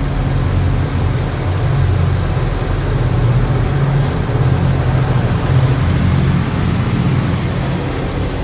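High-pressure rinse water from a touchless automatic car wash spraying onto the car, heard from inside the cabin as a steady rush of water over a heavy low rumble, easing slightly near the end.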